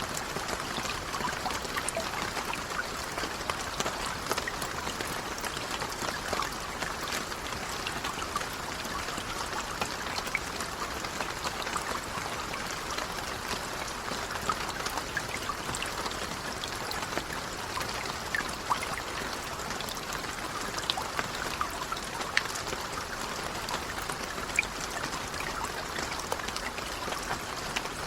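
Light rain falling steadily, a dense patter of small drops.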